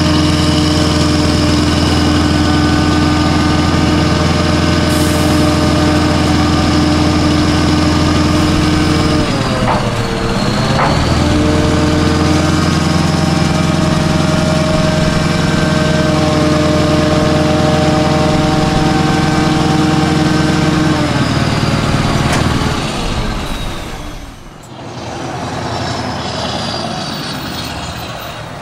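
Scania R500 V8 diesel truck engine with an open exhaust pipe, running steadily at raised revs. About ten seconds in the revs dip briefly and come back; about twenty seconds in they drop lower, and the sound then fades away.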